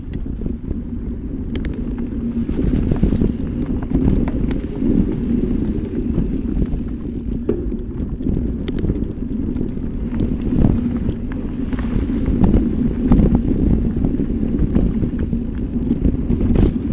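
Electric mountain bike rolling along a forest trail: a steady low rumble of tyres and wind buffeting the microphone, with scattered clicks and knocks throughout.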